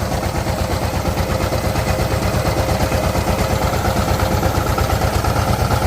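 Power tiller's diesel engine running steadily at idle, with an even, rapid beat.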